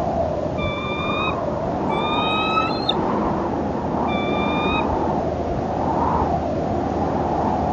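Rushing wind that swells and fades in waves, with a bird giving three drawn-out, steady-pitched whistling calls in the first five seconds, the second rising slightly at its end.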